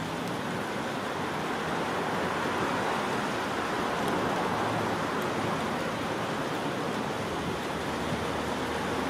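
Distant freight train of covered hopper wagons behind a Class 152 electric locomotive rolling past: a steady rushing noise of wheels on rails, swelling slightly in the middle.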